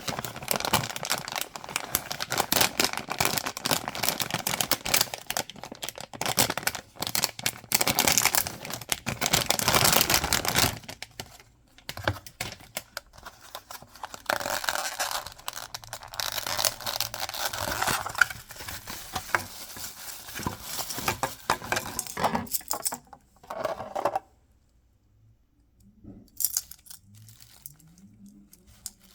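Packaging being crinkled and torn open by hand as a blind-box collectible is unwrapped, in two long stretches of dense crackling. It goes mostly quiet for the last few seconds, with only a few faint handling sounds.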